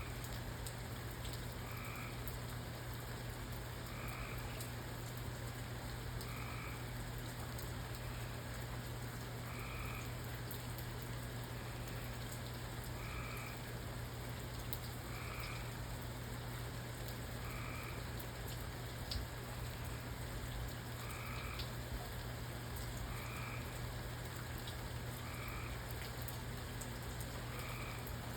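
Steady rain falling, with a frog croaking briefly about every two seconds.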